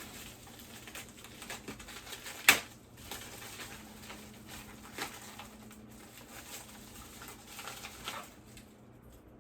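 Packaging being handled and rustled as a mystery bag is opened. There are scattered light crinkles and taps, and one sharp snap about two and a half seconds in.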